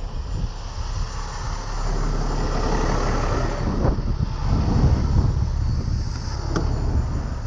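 A truck engine running, a steady low rumble that swells twice, with a single sharp click about six and a half seconds in.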